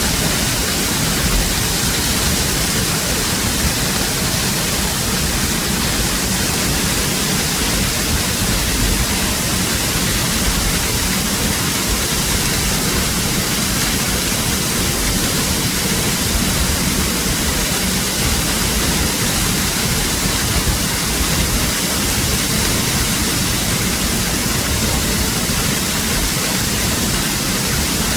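Waterfall rushing: loud, steady noise of falling water, unchanging throughout.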